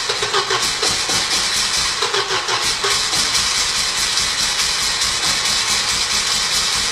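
Volvo B230 2.5 L 8-valve turbocharged four-cylinder running loudly and steadily, a rapid even exhaust pulse, on the first startup of a freshly built engine.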